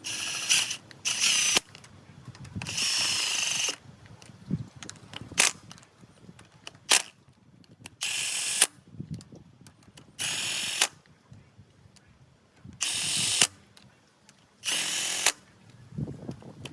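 Cordless impact wrench run in about seven short bursts of under a second each, spinning bolts in or out, with sharp clicks between the bursts.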